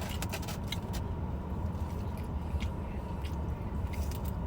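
Steady low engine rumble, as from inside an idling car, with a few faint sharp clicks and taps from handling and eating food.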